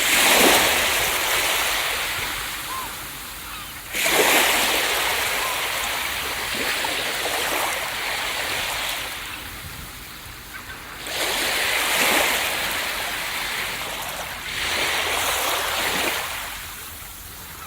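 Ocean waves breaking on a beach: four surges of surf, each crashing in with a rush and then hissing away as it washes back, a few seconds apart.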